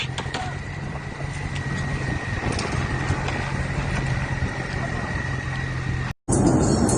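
Steady low motor hum under a constant thin high whine, both cutting off abruptly about six seconds in; a louder, noisier scene follows.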